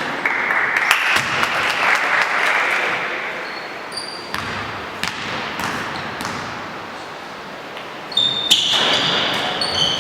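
Live basketball game in a gym: a swell of crowd noise for the first few seconds, the ball bouncing and thudding on the court, and a cluster of high shoe squeaks near the end.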